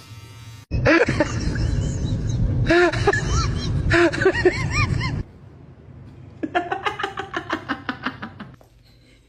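A loud noisy stretch with short rising-and-falling cries for about four seconds, then a burst of rapid, pulsing laughter near the end.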